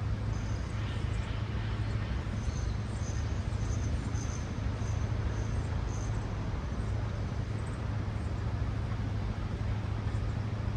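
Steady city traffic: cars passing with a constant low rumble and tyre hiss. A run of short, high chirps sounds over it in the first half.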